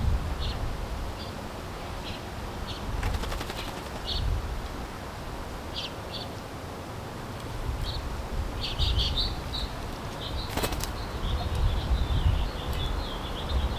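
Small backyard birds giving short chirps, with two quick bursts of wing flapping as birds take off, about three seconds in and again near eleven seconds. A run of twittering follows the second flutter.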